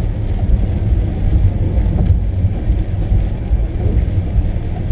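Steady low rumble of a car driving on a rain-wet road, heard from inside the cabin: engine and tyre noise.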